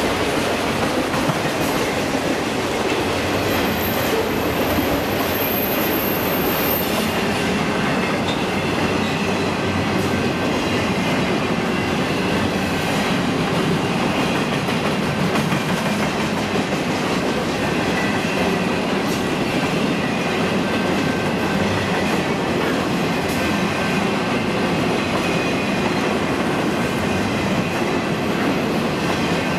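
Train passing at track speed: a steady rush of wheels on rail, with faint high ringing tones from the wheels, unchanging throughout.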